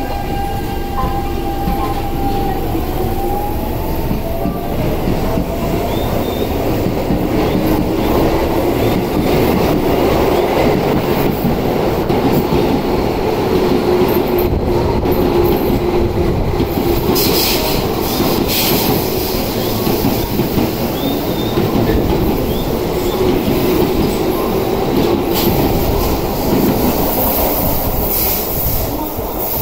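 Keio 8000 series electric trains running on the platform tracks: a continuous rumble of steel wheels on rail, with the steady whine of the traction motors and a tone that slides down a few seconds in.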